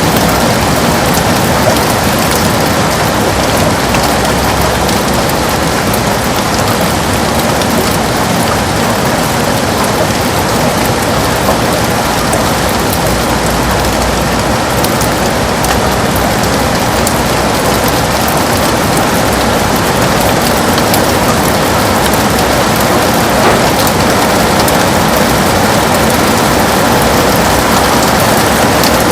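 Heavy rain falling steadily on a window, a dense even patter of drops.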